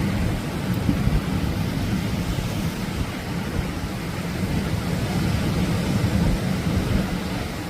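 Atlantic ocean waves surging and breaking on a beach: a continuous rushing wash over a heavy, fluttering low rumble.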